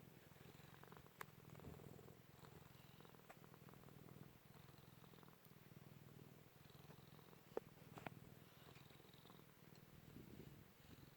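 Domestic cat purring steadily and faintly, the rumble swelling and easing in cycles, with a few short clicks about a second in and again near two-thirds of the way through.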